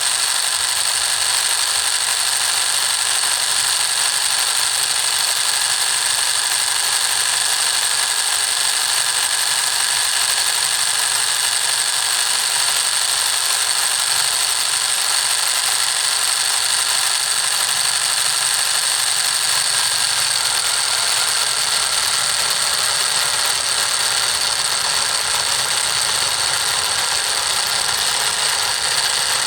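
Small motor of a miniature model tractor and water pump running steadily, with a constant high-pitched whine.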